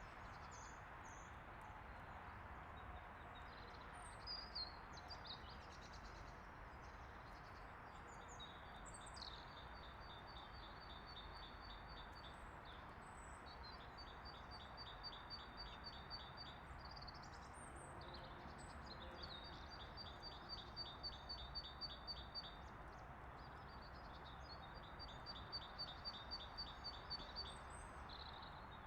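Songbirds singing: a bird repeats a high trill of quick short notes four times, each phrase lasting two to three seconds, with scattered single chirps, faint over a steady background hiss.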